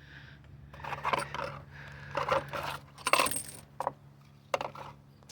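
Several short, light metallic clinks and rattles as small car parts are handled, the old and new PCV valves.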